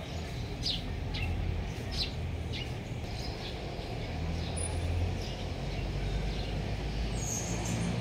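Small birds chirping, short high notes repeated through the first five seconds or so, over a steady low rumble.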